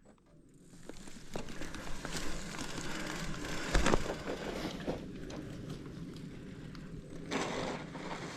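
Specialized Status 160 mountain bike riding over a dirt trail: tyre noise with a steady run of clicks and rattles from the bike, and a hard knock about four seconds in. The sound fades in at the start.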